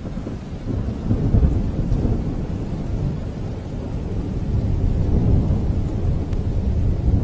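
Low, rolling rumble of thunder that swells a little toward the end.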